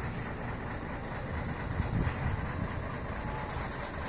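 Diesel engine of a Scania K113 coach running with a steady low rumble, swelling a little about two seconds in.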